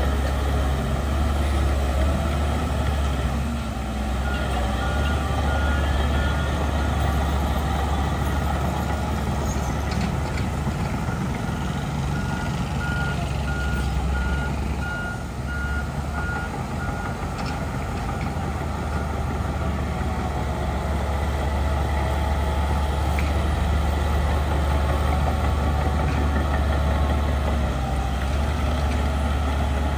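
Heavy diesel engines of earthmoving machinery running steadily, with a reversing alarm beeping in quick, even beeps for a couple of seconds a few seconds in and again for several seconds midway.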